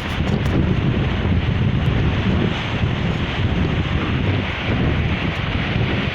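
Strong wind buffeting the microphone with a heavy low rumble, over the steady wash of sea waves.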